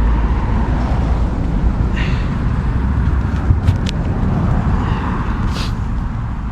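Steady low rumble of road traffic, swelling a little around the middle as a vehicle passes, with a couple of faint clicks.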